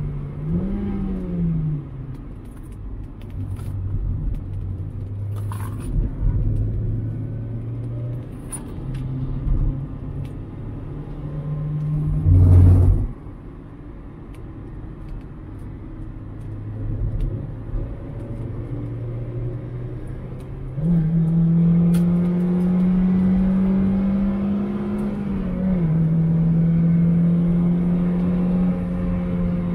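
Mazda MX-5's 1.8-litre four-cylinder engine heard from inside the open cockpit while lapping a track, its note rising and falling with throttle and gear changes. A short, loud thump comes about 12 seconds in. From about 21 seconds the engine pulls hard and louder, with a drop in pitch at a shift about 25 seconds in and a fall near the end as the driver lifts.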